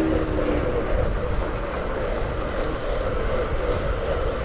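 Steady rush of wind and road noise from a moving road bike, with a low rumble that holds at an even level.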